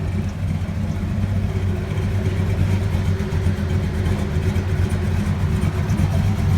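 Vehicle engine idling loudly and steadily, with a low-pitched pulsing exhaust note.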